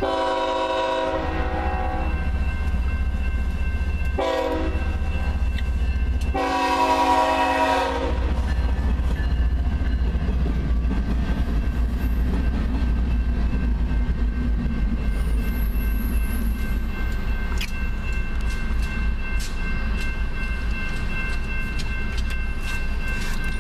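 Union Pacific diesel locomotive's air horn sounding a chord: a long blast, a short one and another long blast, the close of the long-long-short-long grade-crossing signal. Then the steady rumble of the train rolling past at close range, with wheel clicks over the rail joints growing more frequent.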